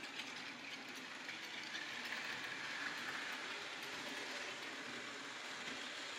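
Model 2-6-2 Prairie steam locomotive running along its track: a steady whirring rattle of its electric motor, gears and wheels on the rails, growing louder over the first couple of seconds and then holding.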